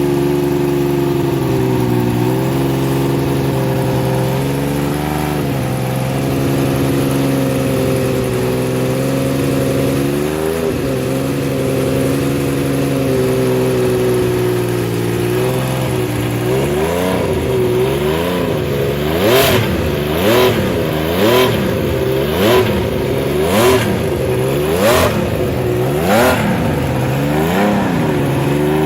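Laverda V6 racing motorcycle's V6 engine running at a steady idle with small wavers. About halfway through it is blipped again and again, around eight quick revs about a second apart, the pitch rising and dropping each time.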